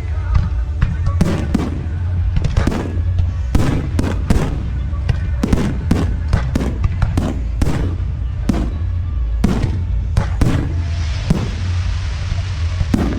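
Aerial fireworks going off in rapid succession: many sharp bangs, a few each second, over a continuous low rumble, with a stretch of hiss near the end.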